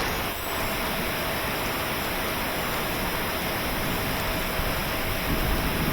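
Steady hiss of falling rain, with a faint steady whine underneath.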